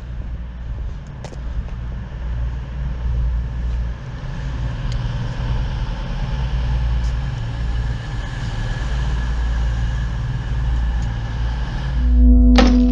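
Diesel train running past with a steady low rumble and a faint high whine over it, cut off near the end by outro music with a sharp thump.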